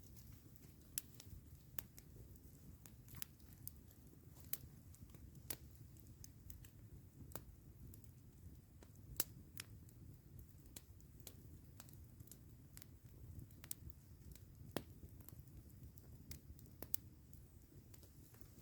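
Campfire crackling: irregular sharp pops and snaps, a few louder than the rest, over a low steady rumble.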